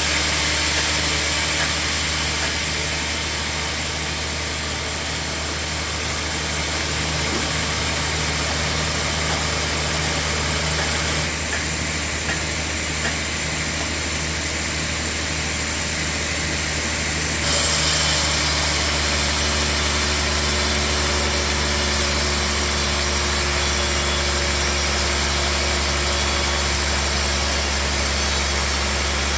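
Band sawmill running with a steady low hum and a broad hiss; the hiss grows brighter and louder suddenly about 17 seconds in.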